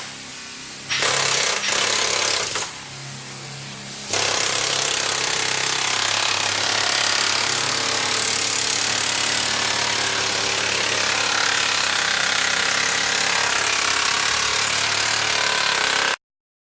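Power tool running: a low motor hum with two short loud bursts as it works, then about twelve seconds of continuous loud working noise that cuts off abruptly near the end.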